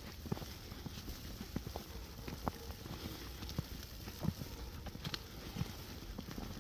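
Footsteps in snow, a step about every half second, over a steady low rumble.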